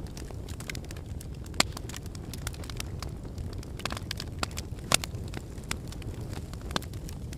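Logs burning in a fireplace, crackling with scattered sharp pops over a steady low rumble of the flames; the loudest pops come about a second and a half in and again around five seconds in.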